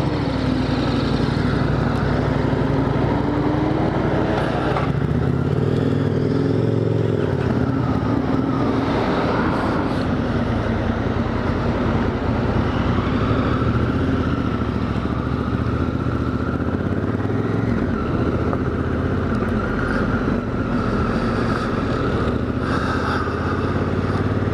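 Honda Africa Twin's parallel-twin engine running as the motorcycle pulls away and rides slowly through town. Its note rises and falls a few times with throttle and gear changes.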